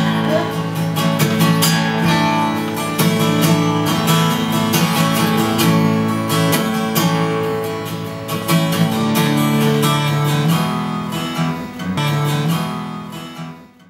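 A guitar being strummed in chords, closing out a song, then fading away near the end.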